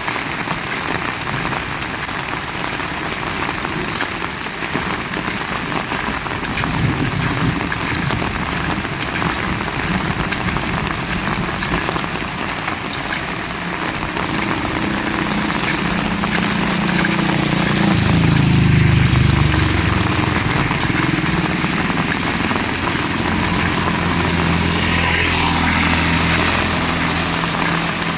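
Heavy rain falling steadily. About halfway through an engine hum comes in under the rain, grows loudest a little past the middle and fades near the end.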